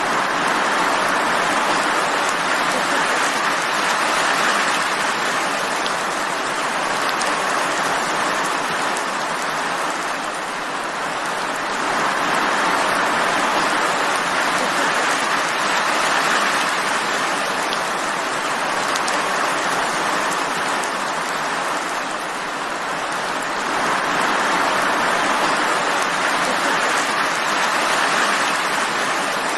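Steady rain falling, an even hiss that swells and eases a little every ten seconds or so.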